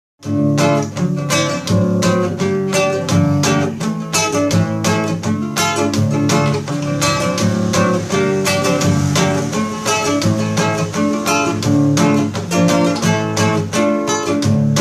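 Instrumental song intro led by strummed acoustic guitar, with a steady rhythm of sharp strokes and no singing.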